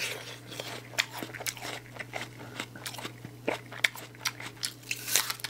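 Close-miked crunching and chewing of raw apple: a run of irregular crisp crunches, with a louder crunch about five seconds in.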